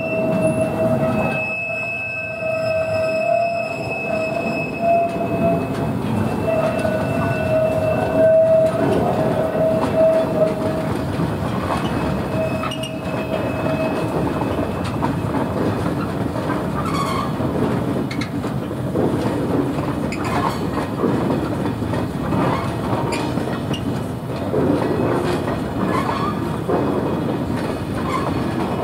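Freight train of loaded flat wagons rolling past, wheels clicking over the rail joints. A steady, high-pitched wheel squeal rings through the first half and fades out about halfway.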